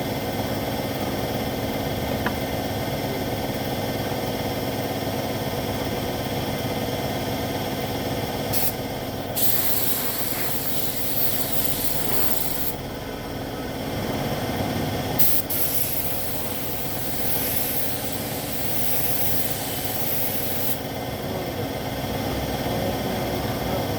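Compressed-air paint spray gun hissing in two long bursts, about three and five seconds long, as motorcycle body panels are sprayed. A steady motor hum runs under it.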